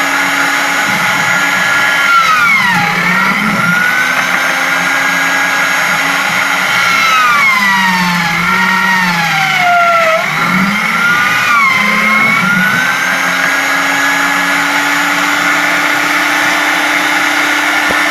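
Electric motor of a homemade drill press running steadily, its pitch sagging three times and climbing back, as the motor slows under load and recovers.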